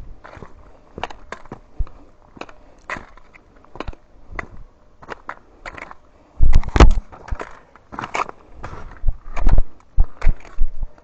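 Footsteps crunching on a dirt trail while climbing, irregular steps about one or two a second, with a louder, heavier crunch about six and a half seconds in.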